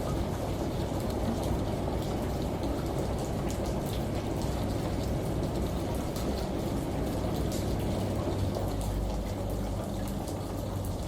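Steady, muffled rush of running water with a low rumble underneath and scattered light drip ticks, from a layered home-ambience mix of shower, rain and washing machine.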